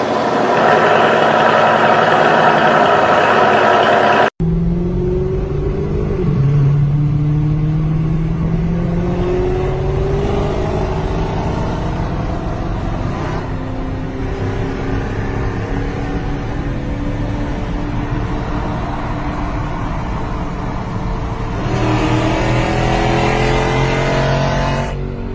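A loud intro sound over a logo cuts off abruptly about four seconds in. Then comes a Mercedes-AMG 5.4-litre supercharged V8 heard from inside the cabin under hard acceleration, its note climbing in pitch through the gears, repeated pulls, louder again near the end, while racing another car alongside.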